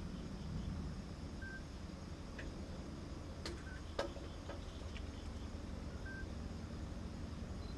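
Outdoor background rumble with a few sharp clicks, the loudest about four seconds in, and a few faint, very short high chirps.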